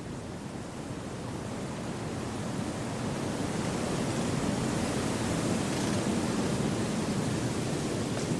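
Wind blowing through forest trees, a steady rushing that swells over the first few seconds into a stronger gust.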